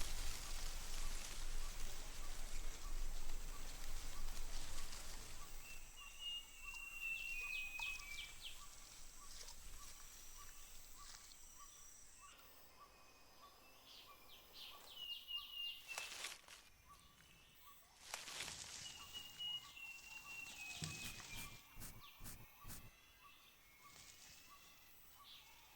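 Tropical rainforest ambience: a steady high insect drone that stops about halfway, a faint pulsing call under everything, and a bird giving short repeated chirps in several runs. A few brief rustles come near the end.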